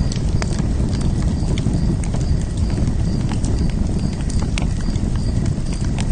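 Wood fire burning in a fire pit: irregular sharp crackles and pops over a steady low rush of the flames.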